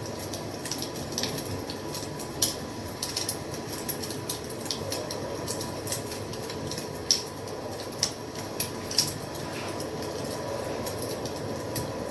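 Wood fire crackling: a steady hiss of burning with irregular sharp pops and snaps, several of them louder in the second half.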